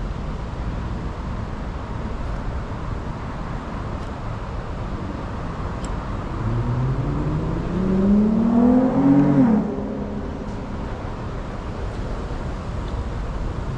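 Steady wind rumbling on the microphone. About six seconds in, an engine passes, its pitch climbing and growing louder for about three seconds before it drops and fades away suddenly.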